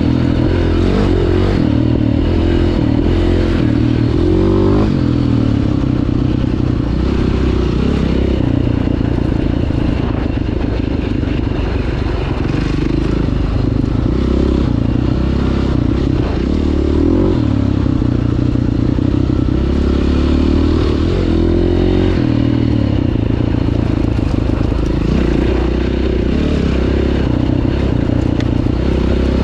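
Dirt bike engine running continuously under load, its pitch rising and falling over and over as the throttle opens and closes.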